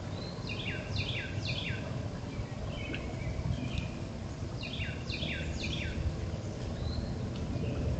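A songbird singing a short phrase of three or four quick down-slurred notes, twice, about four seconds apart, over a steady low rumble.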